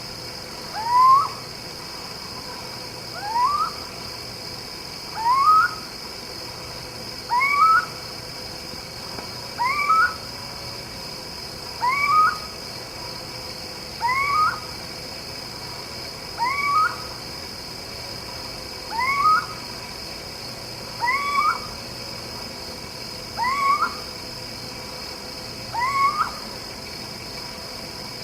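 Young owl calling: a short, rising squeak repeated about every two seconds, about a dozen times, over a steady high-pitched background hiss.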